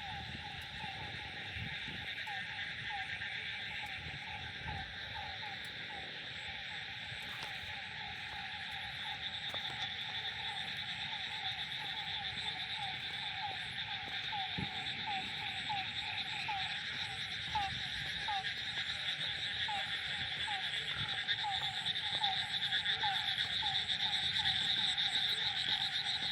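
Frogs croaking in a chorus on a rainy night, short calls repeating about twice a second over a steady hiss of rain and a dense high buzzing background; the chorus grows louder toward the end.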